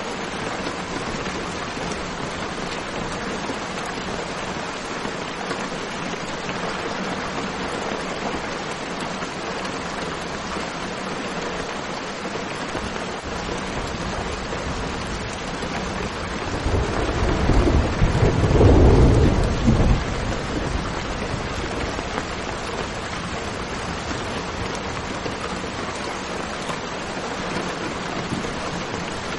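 Steady rain hiss, with a low roll of thunder rising a little past the middle, peaking and dying away after about three seconds; the thunder is the loudest thing.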